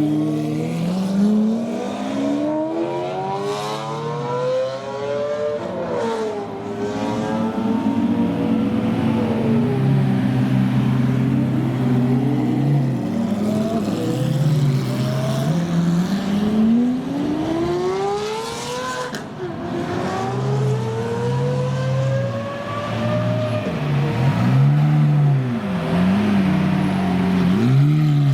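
Supercar engines revving and accelerating. The engine note climbs and drops back sharply several times, as at gear changes, and near the end there are quick throttle blips.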